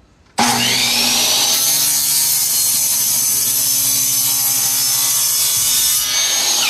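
Electric power saw starting about half a second in, its whine rising as the blade spins up, then running steadily at full speed while cutting a luxury vinyl plank to length; the motor begins to wind down, pitch falling, right at the end.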